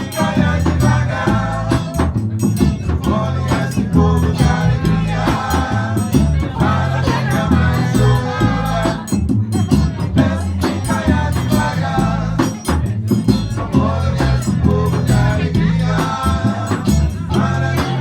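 Live band music: a singer over a steady bass and rhythmic shaken percussion such as maracas or a rattle.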